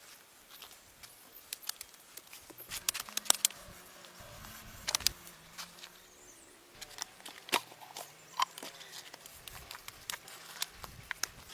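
Irregular light clicks, taps and crunches, with a few sharper snaps among them, typical of hands working with sticks or stepping on dry debris.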